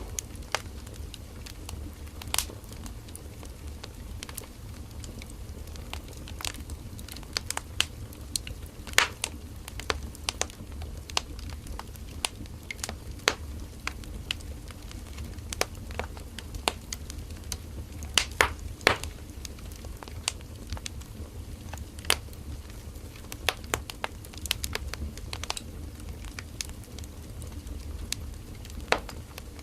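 Firewood burning in a campfire, crackling and popping with irregular sharp snaps over a steady low rumble of the flames; a cluster of louder pops comes about two-thirds of the way through.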